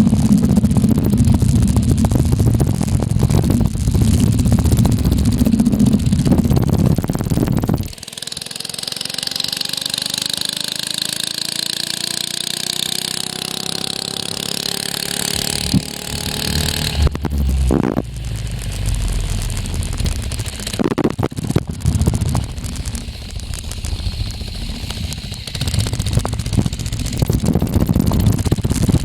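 Baja mini bike's small engine running while ridden. For the first several seconds it is a loud, close, steady engine note. About 8 seconds in, the sound changes to a fainter engine whose pitch rises as it accelerates, over a hiss. In the second half the close, low engine note returns.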